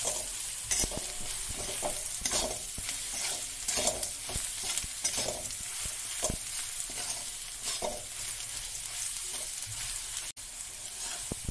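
Onions and ground spices frying in mustard oil in a metal kadhai, sizzling steadily, while a metal spatula stirs and scrapes through them in repeated strokes: the masala being roasted.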